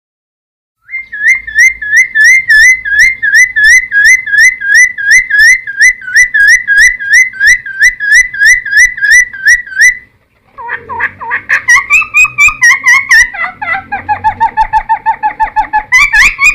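Cucak timor singing: a long run of loud, evenly repeated notes, about three a second. After a brief break about ten seconds in, it moves into a faster, more varied phrase of quick notes.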